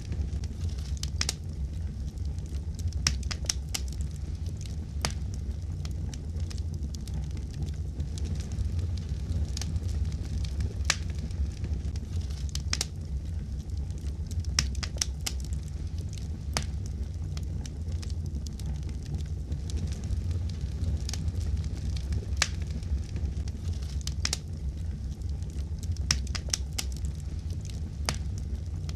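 Fireplace fire crackling: a steady low rumble of flames with irregular sharp pops scattered throughout.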